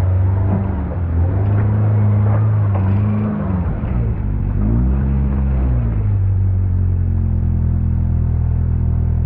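Off-road vehicle's engine working in low gear, its revs rising and falling a couple of times before settling into a steady drone about six seconds in.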